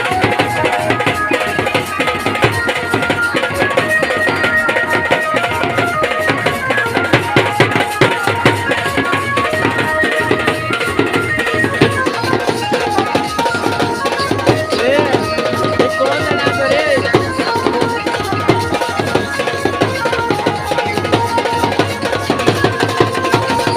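Banjo band music: a melody of short repeated notes over fast, steady hand-drum percussion.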